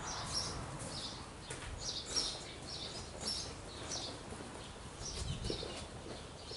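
Small birds chirping over and over, short high chirps spread through the whole stretch, with a few faint knocks underneath.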